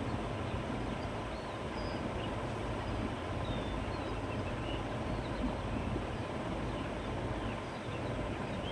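Steady countryside wind blowing through grass and trees, with a low rumble, and faint short bird chirps scattered throughout.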